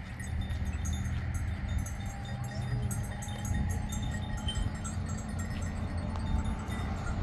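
Outdoor ambience: a steady low rumble with faint tinkling of small bells.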